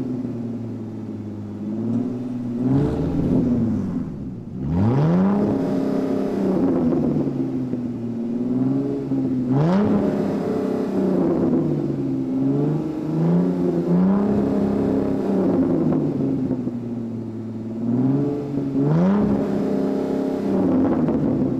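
Car engine accelerating and easing off over and over, its pitch rising and falling every few seconds, with a deep rising sweep about four seconds in.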